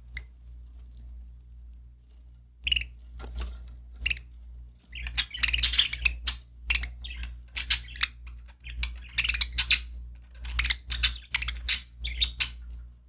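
Budgerigars chirping in quick, dense runs of short high notes and clicks, starting about two and a half seconds in, over a faint steady low hum.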